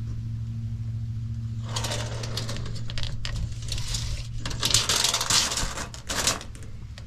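Tape measure blade being run out across the floor, rattling and scraping in rapid clicks from about two seconds in to near the end. A steady low hum sits underneath.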